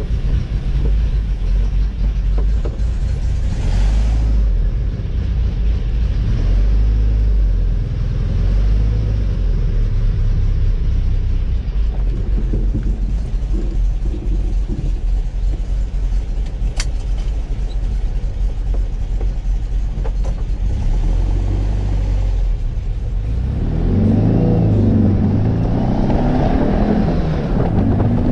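Air-cooled 1680cc flat-four of a 1966 VW Beetle, heard from inside the cabin, running at low speed with a steady low drone, then revving up near the end, its pitch rising and falling as it accelerates. The owner judges its running, on the new Pertronix electronic ignition, a little better but still not right, with an ignition fault suspected.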